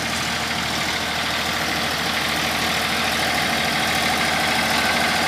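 Massey Ferguson 241 DI tractor's diesel engine running steadily while driving a 7-foot, 60-blade rotavator through the PTO. The engine is not labouring under the load.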